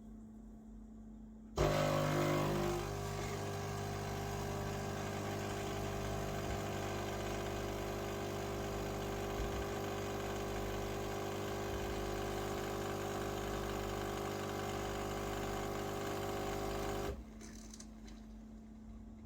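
Philips 5400 Series bean-to-cup espresso machine running: it starts suddenly and is louder for its first second, then settles into a steady hum for about fifteen seconds and cuts off abruptly.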